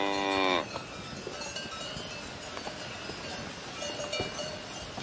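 A cow mooing, the call ending about half a second in with a slight fall in pitch. After it, cowbells ring faintly in the background.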